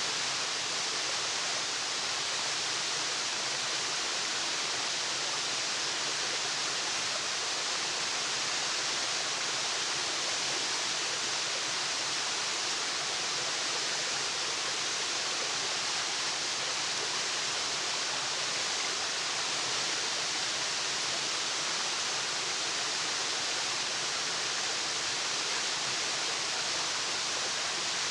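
Waterfall: falling water making a steady, even rushing hiss that stays level throughout.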